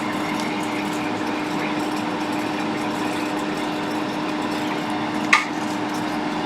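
Hot air rework station blowing steadily on a laptop logic board to desolder small diodes, a constant airy rush with a faint steady hum. A single sharp click about five seconds in.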